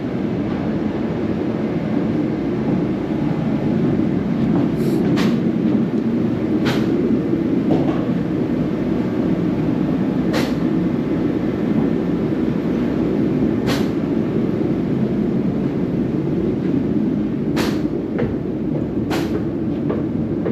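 Steady low rumble of a vehicle moving on the road, heard from inside, with a few short sharp ticks or knocks at uneven intervals.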